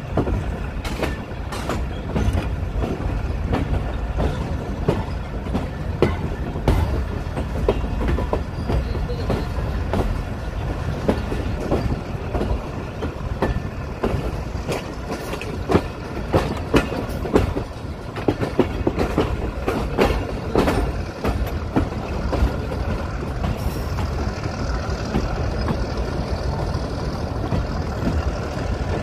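Pakistan Railways Awam Express passenger train pulling out of a station, heard from a carriage doorway. A steady rumble runs under irregular clacks and knocks as the wheels pass over rail joints and points.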